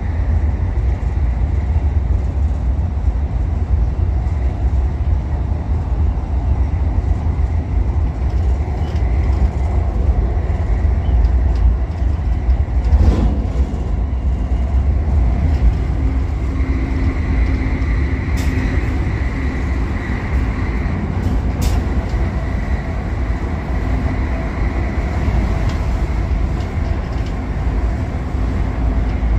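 MTR Airport Express train running at speed, heard from inside the passenger car: a steady low rumble of wheels on rail with a faint steady whine. There is a brief rush of noise about thirteen seconds in and a few light clicks later on.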